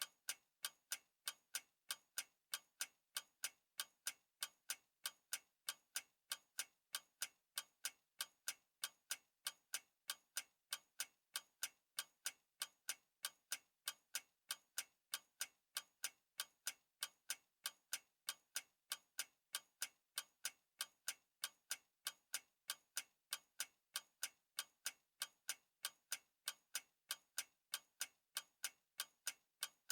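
Clock ticking steadily, with sharp, evenly spaced ticks at about three a second.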